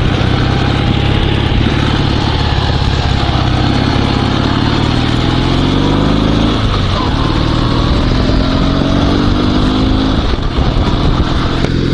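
Dnepr 16 sidecar motorcycle's flat-twin engine running under way, the pitch climbing as it accelerates, dropping about six and a half seconds in at a gear change, then climbing again.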